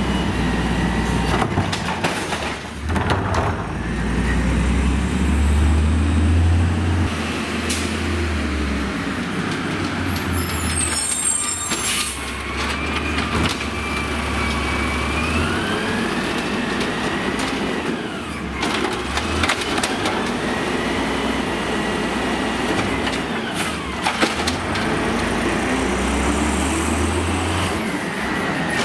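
Amrep automated side-loader garbage truck working: the diesel engine revs up and settles several times under a whine that rises and falls, with a hiss of air brakes about ten seconds in and again at the end.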